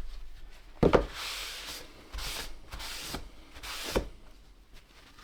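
Hands rubbing and scraping on the radio chassis during the clean-up of leaked capacitor fluid, with a dull knock about a second in and another near the end.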